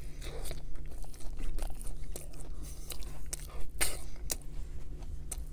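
A bite into a McDonald's burger with lettuce, then close-miked chewing: a run of moist clicks and crunches, with a few sharper crunches about four seconds in. A faint steady low hum sits underneath.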